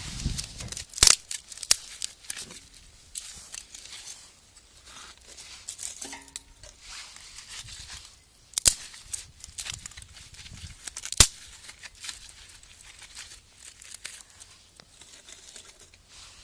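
Dry material being handled, crinkling and tearing, with four sharp snaps, the loudest near the end.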